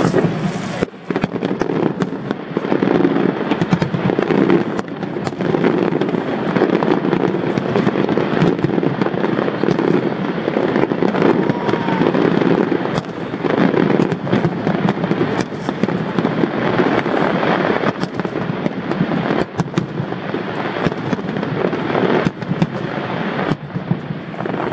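Fireworks display going off in a dense, continuous barrage of crackling and popping, with many sharp bangs throughout.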